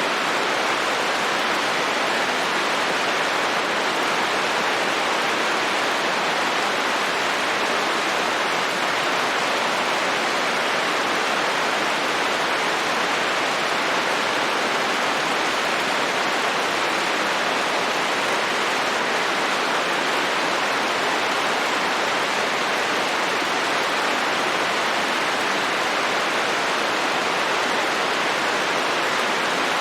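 Steady rain falling, a dense even hiss without distinct drops or thunder.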